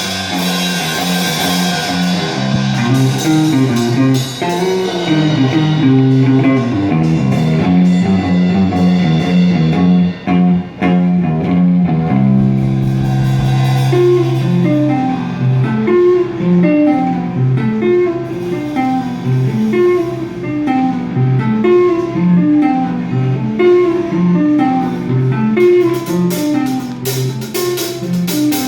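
A band playing live, led by guitar picking a repeating riff over bass; cymbals wash out in the first couple of seconds and the drums come back in near the end.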